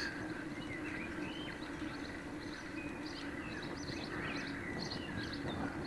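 Small birds chirping many times in quick short calls, over a steady background hiss and a low steady hum.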